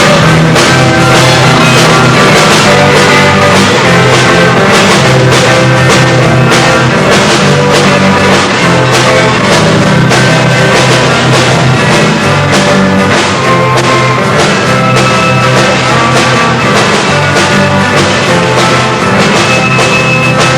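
Rock band playing live and loud without vocals: a drum kit keeping a steady, driving beat under electric guitar and bass.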